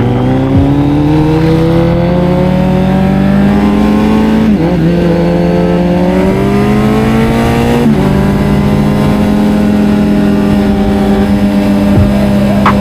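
Kawasaki Z900's inline-four engine accelerating through the gears. The revs climb, dip at an upshift about a third of the way in, climb again and dip at a second upshift just past halfway, then hold steady at cruising speed.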